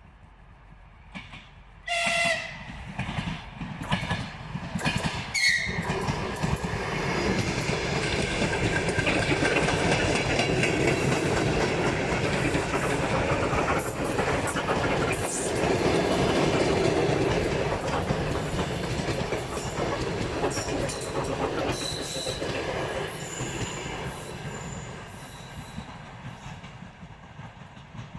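Electric train giving two short horn blasts, then running past with its wheels clacking over the rail joints, the noise building to a long loud passage and fading near the end.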